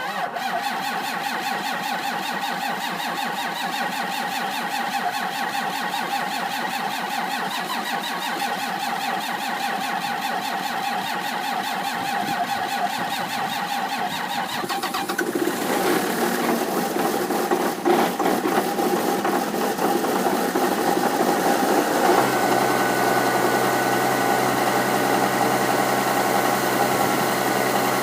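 John Deere 7410 tractor's six-cylinder diesel starting cold after a 0°F night: the starter cranks with a fast steady rhythm for about fifteen seconds before the engine catches, runs rough and loud, then settles into a steady idle about eight seconds later. The long crank is the sign of a hard cold start without the block heater, on original batteries and the intake preheater alone.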